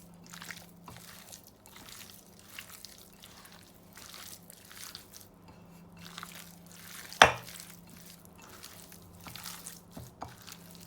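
Raw chicken strips being mixed with dry spices in a bowl: soft, irregular wet squishing and rustling, with one sharp knock about seven seconds in.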